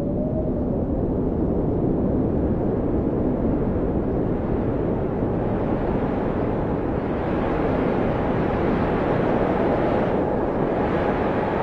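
Blizzard wind blowing in a steady low rush, with faint howling tones that rise and fall in pitch. The gusts grow a little stronger and brighter about seven seconds in.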